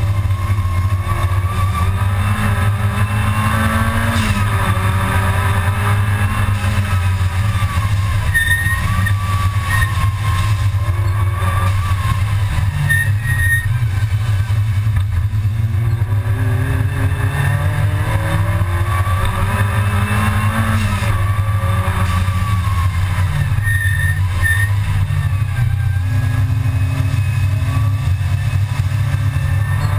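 Supercharged VW G60 engine of a Mk II Golf GTI race car heard from inside the cabin at racing speed. Its pitch climbs and drops repeatedly as it revs up through the gears and backs off for corners, over a heavy steady low drone.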